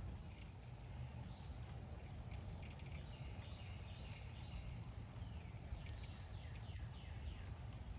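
Backyard songbirds chirping: many short chirps with a few quick falling notes, over a steady low background rumble.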